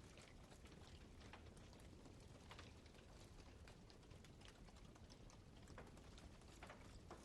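Wood fire crackling faintly: irregular small pops and snaps over a low steady rumble.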